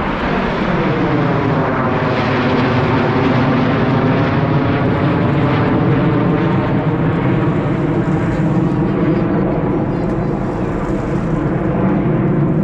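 Blue Angels jet flying low overhead: a loud, steady engine roar whose tone slides down over the first two seconds and then holds.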